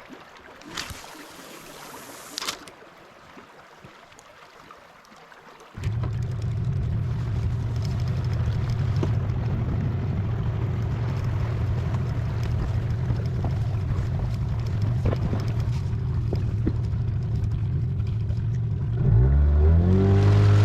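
Quiet outdoor background with two brief noises. About six seconds in, an engine suddenly comes in running steadily with a low hum, then near the end it revs up, its pitch rising as it speeds up.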